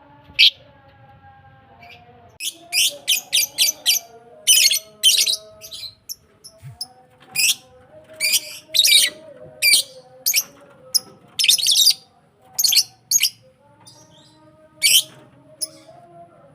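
Lovebirds chirping: sharp, shrill chirps, some single and some in quick runs of several, at irregular intervals.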